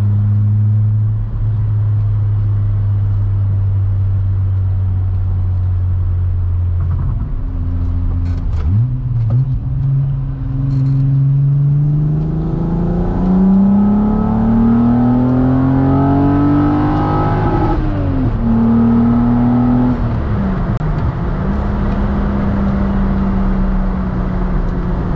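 Modified 12-valve AAA VR6 engine with Estas 268 cams in a Mk2 Golf GTI, heard from inside the cabin while driving. It holds a steady cruise, then the revs dip and recover about eight seconds in. From about twelve seconds they climb steadily for several seconds, drop sharply twice at gear changes, and settle into a steady cruise.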